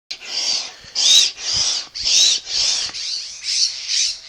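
Kite inflation hand pump worked in quick strokes, about two a second, each stroke a hissing squeak that sounds like a bird chirping; the strokes get lighter after about three seconds.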